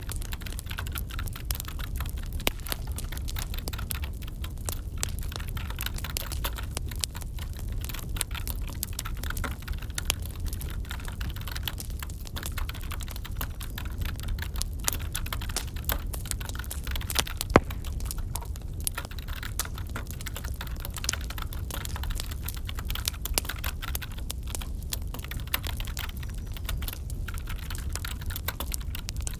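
Computer keyboard typing over a crackling wood fire, many quick irregular clicks and pops above a steady low rumble, with one sharper crack about 17 seconds in.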